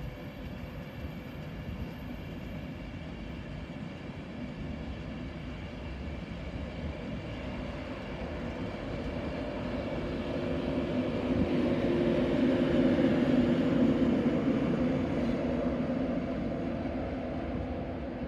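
InterCity 225 electric express train running along the far line: a steady rumble of wheels with an electric hum of several held tones that grows to its loudest about two-thirds through, then eases as the train draws away.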